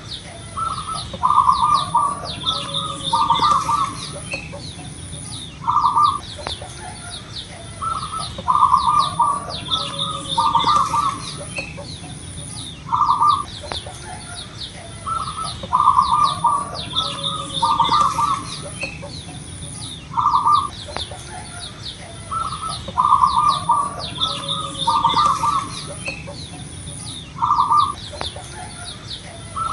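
Zebra dove (perkutut) cooing its song, a burst of short staccato coos repeated about four times, roughly every seven seconds. High-pitched chirping and a thin steady high whine run underneath.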